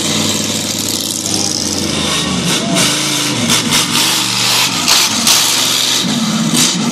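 Monster truck engine running loudly, with the pitch rising and falling in short revs from a couple of seconds in.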